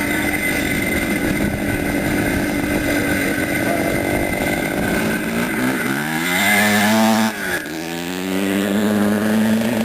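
Vintage CZ two-stroke motocross motorcycle running with a rasping exhaust. About halfway through the revs climb, drop sharply for a moment near seven seconds as if on a gear change, then rise again and hold high.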